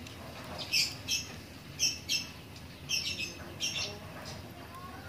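A bird's short, high-pitched calls, about eight of them, mostly in quick pairs.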